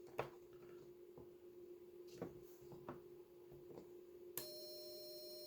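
Faint clicks of controls being worked on the (tr)uSDX transceiver as it is switched to the 80-meter band, over a low steady hum. A little over four seconds in, a steady faint electronic tone with a high whine comes on and holds.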